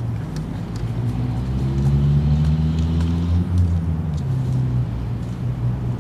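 Motor vehicle engine rumble, swelling about a couple of seconds in and easing off again, with a few faint light clicks.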